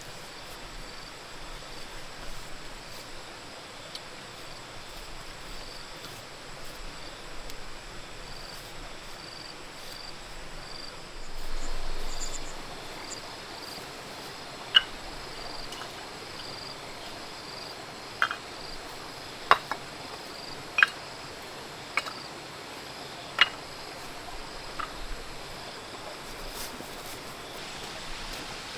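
Crickets chirping steadily in a faint pulsing trill over outdoor background noise. In the second half come about seven sharp, separate knocks or taps a second or two apart.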